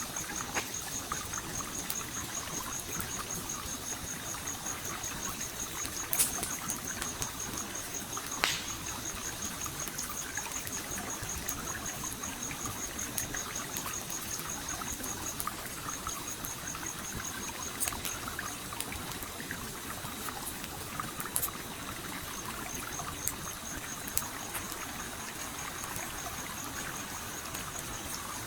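A stream flowing and trickling steadily, with a campfire crackling over it in scattered sharp pops; the loudest pops come about six and eight and a half seconds in. A high, rapidly pulsing tone runs behind and drops out briefly a couple of times.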